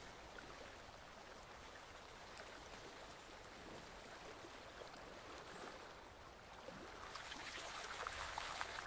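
Forest stream flowing steadily, with the splashing and trickling growing louder near the end.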